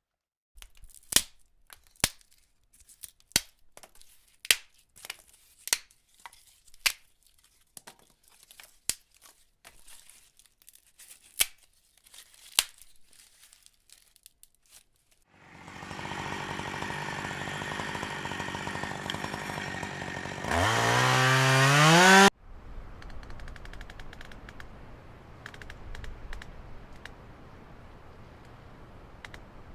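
Wood cracking in a series of sharp, separate snaps, about one a second, like twigs and branches breaking. Then comes a steady rushing noise. A loud pitched sound climbs steeply in pitch for about two seconds, then cuts off suddenly, leaving a faint steady hiss.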